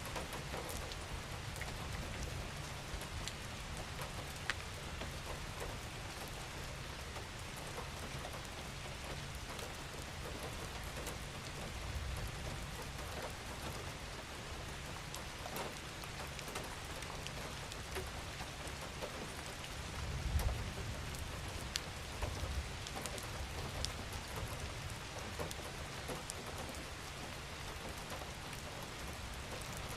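Steady, gentle rain falling, with individual drops ticking through the even hiss. A low rumble swells briefly about twenty seconds in.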